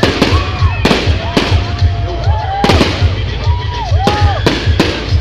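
Fireworks display: aerial shells bursting in a rapid, irregular string of bangs, two or three a second, over a continuous low rumble.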